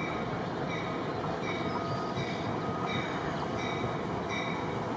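An NJ Transit diesel commuter train approaching cab car first, its running making a steady rumble while its bell rings about three times every two seconds. A faint high squeal comes in briefly about two seconds in.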